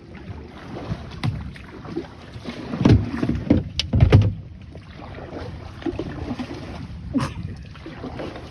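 Kayak on a river: water and paddle noises against the hull over a steady hiss of wind on the microphone. There are scattered clicks and two heavy low knocks, about three and four seconds in.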